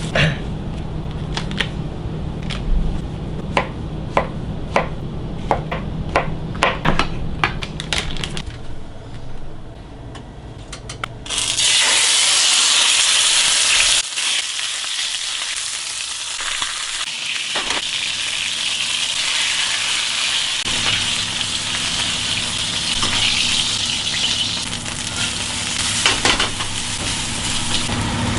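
A utensil clicking and scraping in a pan, then about 11 seconds in a loud sizzle starts suddenly as food goes into hot oil, and the frying goes on steadily with occasional clicks of the utensil.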